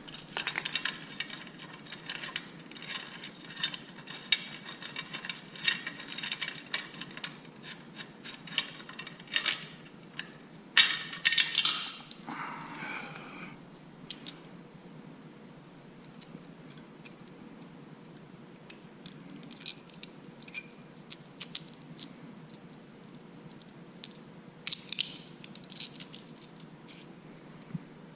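Small metal parts and tools clinking and rattling as they are handled while a motorcycle slip-on exhaust is being fitted. The clicks come in quick runs, with a louder clatter about eleven seconds in and scattered clicks after it.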